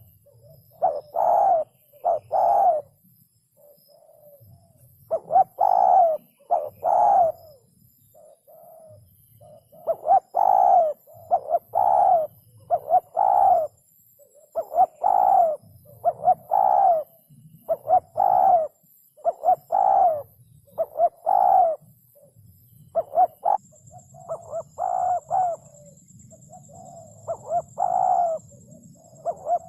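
Spotted dove cooing over and over, low-pitched coos in phrases of two or three notes separated by short pauses.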